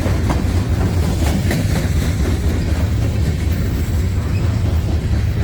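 A freight train rolling past with a steady, deep rumble, and a few wheel clicks over the rails.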